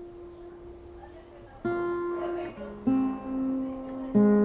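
Acoustic guitar being tuned up: single strings plucked one at a time and left to ring, a few notes a second or so apart at different pitches, the loudest near the end.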